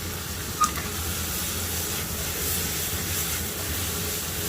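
Pork belly, onions and green onions sizzling steadily in an uncovered frying pan, with one light click about half a second in.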